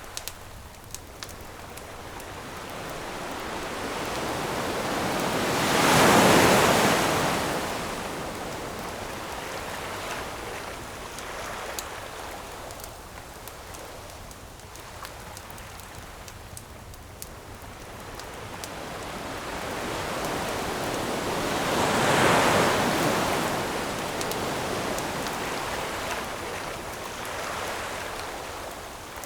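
Ocean waves breaking on a shore: two waves swell up and crash, about six seconds in and again about twenty-two seconds in, each falling away slowly. Scattered small crackles of a wood campfire sound under the surf.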